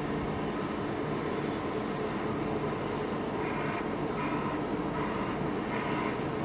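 A train running past on the line with a steady rumble, and a few short higher-pitched tones over it in the second half.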